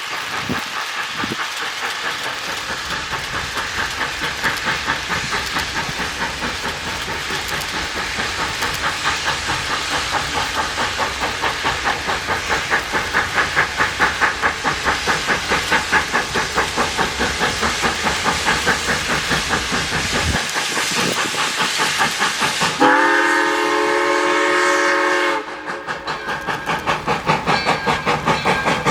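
Arcade & Attica 2-8-0 Consolidation steam locomotive #18 working with a steady, rhythmic exhaust chuff, and sounding its chime-like steam whistle once, for about two and a half seconds, a few seconds before the end.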